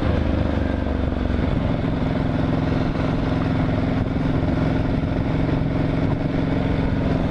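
Motorcycle engine running steadily while being ridden, its note holding an even pitch with no revving.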